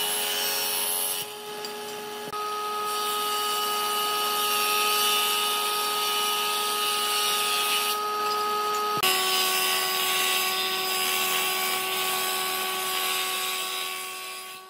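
An electric power tool running on wood, a steady motor note over a grinding hiss. The note jumps abruptly a few times, about one, two and nine seconds in, and fades out at the end.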